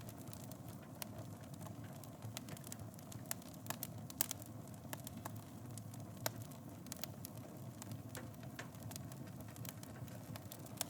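Wood fire in a fireplace crackling: frequent irregular sharp pops and snaps over a steady low rustle of flames, with a louder pop about four seconds in.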